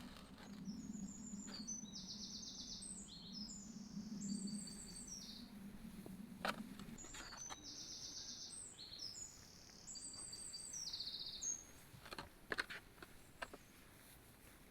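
A songbird singing two long phrases of rapid high trills, each about four seconds. A low steady hum runs under the first half, and a few sharp clicks come near the end.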